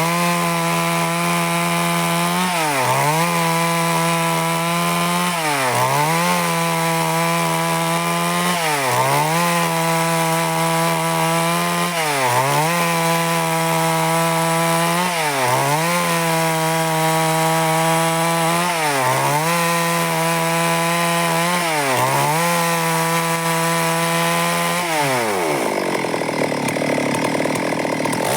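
Stihl MS 382 two-stroke chainsaw running near full throttle while cutting lengthwise through a log into boards. The engine note dips briefly and recovers about every three seconds as the saw is loaded, then sags lower for a few seconds near the end.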